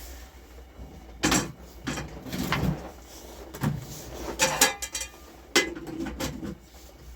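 A series of irregular knocks and scrapes, about seven in all, of hard objects being handled and set down.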